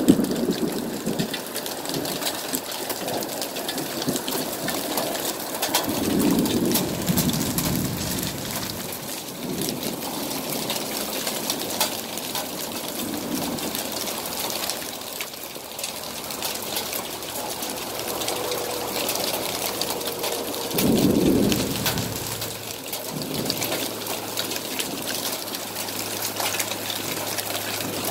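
Heavy rain pouring down steadily, with drops pattering and dripping close by. Two low rumbles swell up, about six seconds in and again about twenty-one seconds in.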